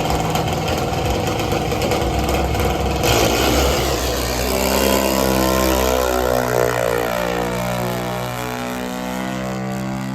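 Drag-racing car engine running loud under throttle: a rough, noisy rasp for the first few seconds that settles into a clear, steady engine note about four seconds in.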